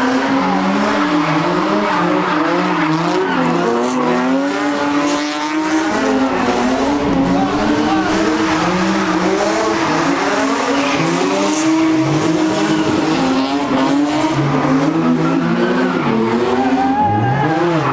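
A car drifting: its engine revving hard and rising and falling in pitch, with tyres squealing, continuously.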